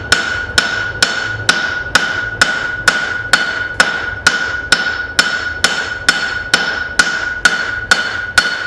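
Blacksmith's hammer striking hot steel on an anvil in a steady rhythm of about two blows a second, the anvil ringing on between blows, as facets are forged onto a hammer head.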